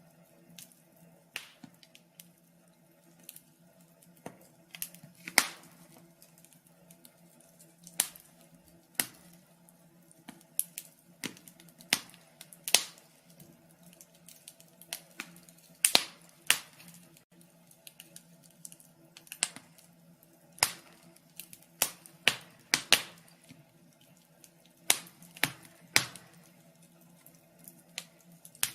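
Wood fire crackling, with irregular sharp pops and snaps at uneven intervals, some much louder than others, over a faint steady low hum.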